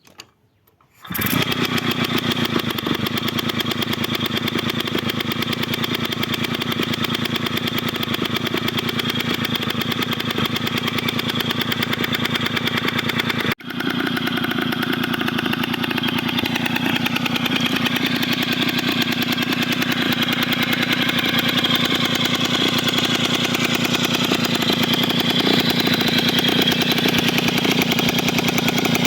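Rog Pony Express moped's small two-stroke engine comes in about a second in and runs steadily with a fast, even putter after its repair, with one sudden brief dropout about halfway through.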